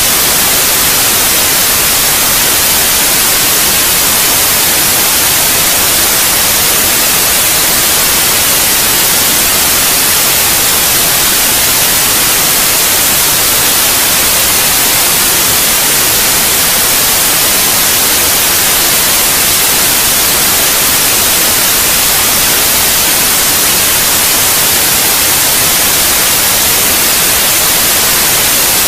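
Steady, loud white noise: an even hiss, brightest in the high end, unchanging throughout, played as a sleep aid for babies.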